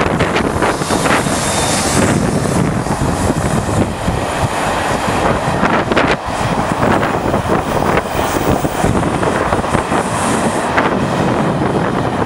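Diesel-hauled passenger train passing close by: the locomotives go by near the start, then a long rake of Pullman coaches rumbles past on the track, with heavy wind noise on the microphone.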